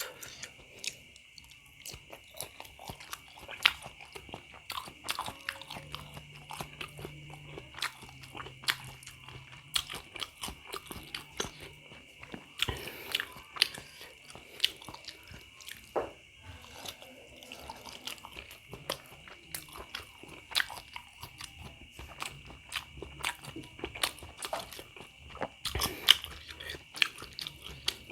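Close-miked chewing and biting of meatballs (pentol bakso), with many small irregular mouth clicks and smacks.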